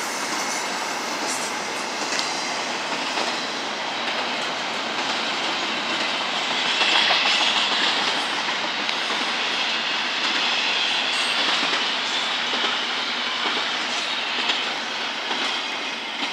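Double-stack container cars of a freight train rolling past: steel wheels clicking over rail joints in a steady rumble and hiss, the hiss brightening through the middle.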